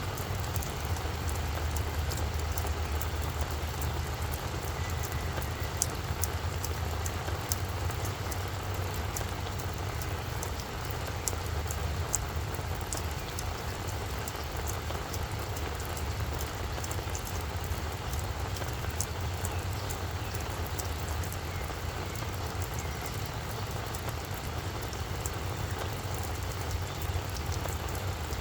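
Steady rain falling on a flower bed, with scattered sharp drop ticks over an even hiss, above a steady low rumble.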